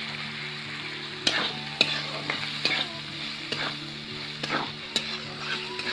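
Baby potatoes sizzling in hot oil in a metal karahi while a flat metal spatula stirs them. The spatula scrapes and clicks against the pan every half second to second.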